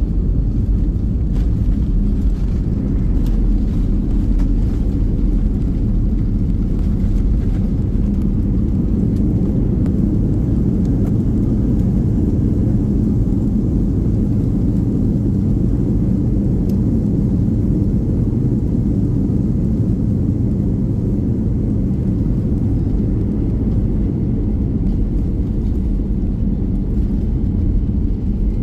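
Steady low rumble of an airplane during landing, unchanging throughout.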